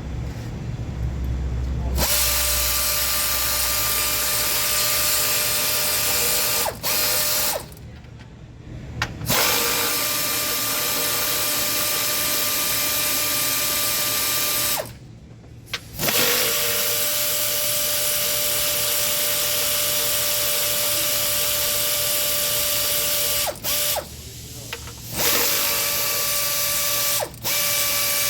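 Power tool running at a steady pitch in long runs of several seconds, stopping briefly a few times and starting again, as parts are taken off a Ford Taurus V6 engine.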